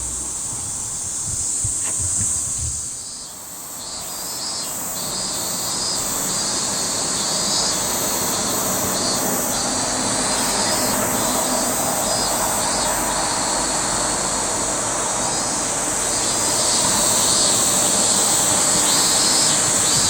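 Cicadas buzzing: a steady high drone with a pulsing, repeating buzz over it, above a steady rushing background noise that grows louder near the end.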